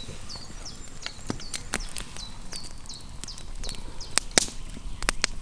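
Campfire wood crackling, with irregular sharp pops, the loudest a pair about four seconds in. A high, repeated, downward-sliding chirp sounds several times a second through the first three seconds or so.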